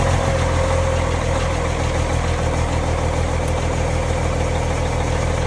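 Prime mover truck's diesel engine idling steadily, running just after being jump-started from flat batteries.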